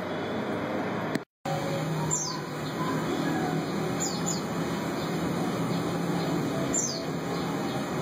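A bird chirping: a few short high downward notes a second or two apart, over steady background hiss and a low hum. The sound drops out completely for a moment about a second in.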